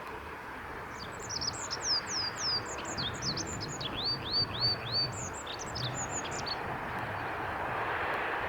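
Olive-backed pipit singing one long song phrase of quick, high, descending sweeps, with a run of four repeated notes in the middle. Underneath is a steady background hiss that grows louder near the end.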